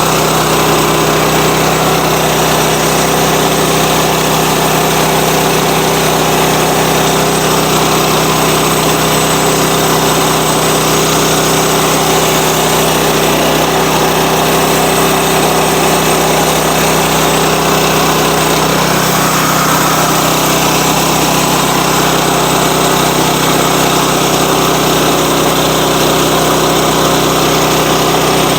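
Sawmill engine running steadily, its tone shifting slightly about halfway through.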